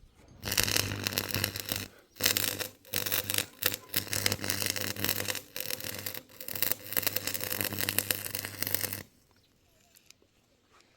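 Electric power tool run in several bursts, with a steady motor hum under a grinding, scraping sound, stopping about nine seconds in.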